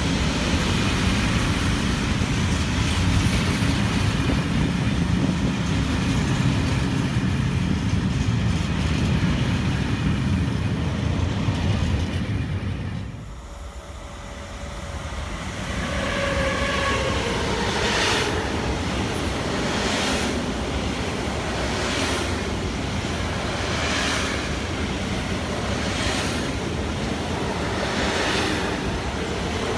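Freight trains passing close by on the station track: first a steady low rumble from a long rake of covered goods wagons, then, after a brief dip about 13 seconds in, an electric freight locomotive hauling intermodal wagons loaded with truck trailers. The later wagons' wheels clack over the rails about every two seconds.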